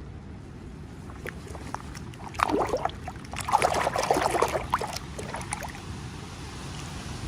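Packaging being handled, rustling and crinkling in two crackly bursts near the middle, over a steady low rumble.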